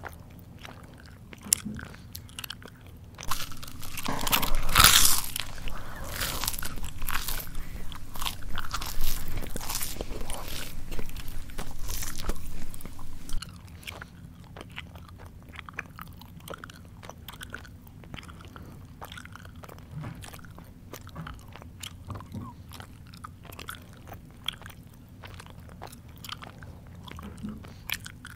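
Close-up mouth chewing crunchy food such as potato chips. Loud, dense crunching runs from about three seconds in to about thirteen seconds, then eases into softer chewing with scattered small clicks.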